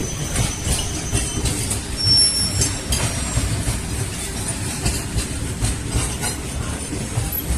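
Krishna Express passenger train running along the track: a steady rumble of the coach with wheels clattering over rail joints and brief high squeals from the wheels. A louder jolt comes about two seconds in.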